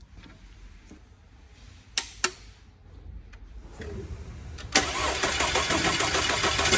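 Two sharp clicks, then an Audi A5 2.0-litre four-cylinder engine starting up with a sudden loud onset about two-thirds of the way in and running steadily: the first start after its cylinder head and timing chain have been replaced.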